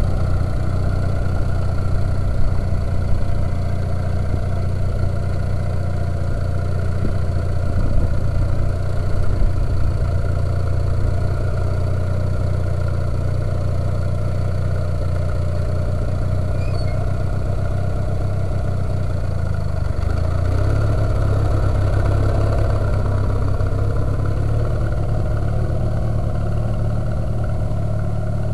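Sears garden tractor engine running steadily while pulling a plow through garden soil, its low note growing a little stronger about twenty seconds in.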